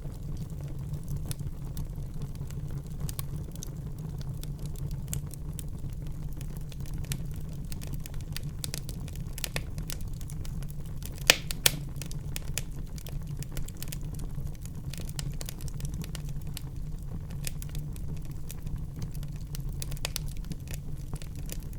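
Wood fire burning in a fireplace: a steady low rumble of flames with frequent small crackles, and two louder sharp pops close together about halfway through.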